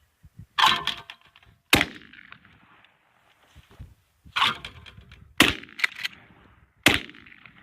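Five gunshots, spaced about one to one and a half seconds apart, the first and fourth with a longer trailing reverberation.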